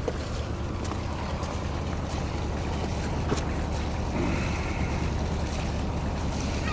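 Small boat's inboard diesel engine running steadily at idle, a low even hum, with a few faint clicks over it.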